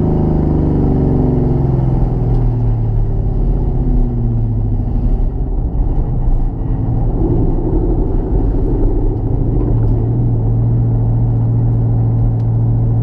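A car engine running under way, its revs settling after a drop and then holding fairly steady, with a brief change about seven seconds in.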